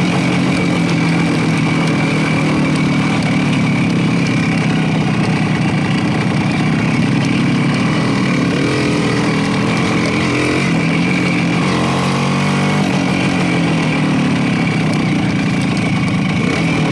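Motorcycle engine running at a steady, even pace while riding.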